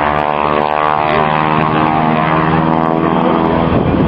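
Piston engines of propeller aircraft in a low flying display, a steady multi-toned drone that shifts slightly in pitch as they pass.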